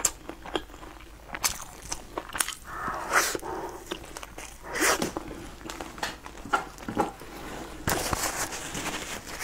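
Close-miked eating: a crispy fried pastry being bitten and chewed, with sharp crunches and wet mouth sounds. Near the end a paper napkin rustles.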